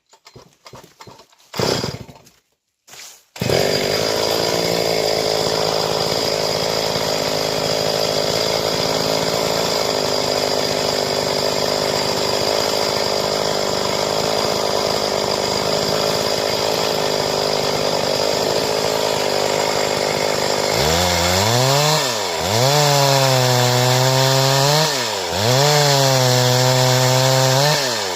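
Stihl two-stroke chainsaw cutting boards from timber. It starts up about three and a half seconds in and runs at steady high speed. From about 21 s its pitch drops and dips three times, recovering each time as the engine speed rises and falls.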